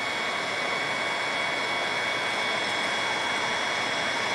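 Heat gun blowing steadily, a rush of air with a faint steady high whine, heating a glued-on emblem to soften the adhesive so it can be popped off.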